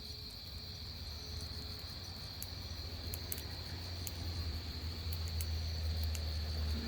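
Crickets trilling steadily on an autumn night, over a low rumble that swells slightly, with a few faint, sharp crackles in the second half.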